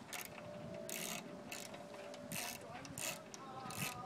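Socket ratchet wrench working a 7/16-inch bolt loose, its pawl clicking in about six short runs, one on each back-stroke.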